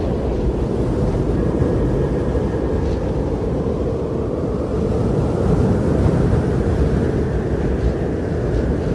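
Strong blizzard wind blowing steadily as a deep, dense rush, with a faint whistle about a second and a half in.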